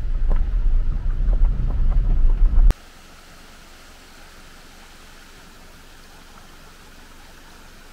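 A vehicle driving on a rough dirt road: a loud low rumble with scattered knocks and rattles. It cuts off suddenly about three seconds in, leaving a steady, even hiss.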